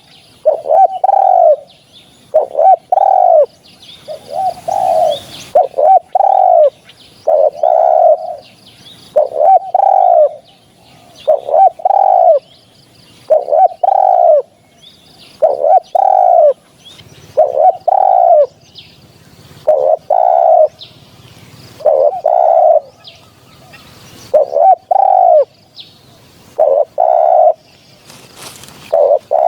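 Spotted dove cooing, loud and close: short phrases of low arching coos repeated about every two seconds.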